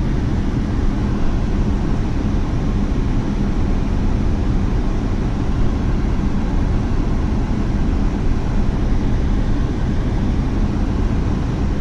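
A vehicle's engine running steadily while moving, with a constant rush of noise.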